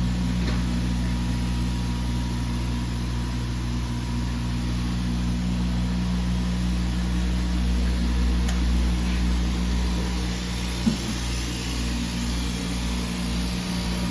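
A 9060 laser cutting and engraving machine running with a steady hum. One short knock comes about eleven seconds in.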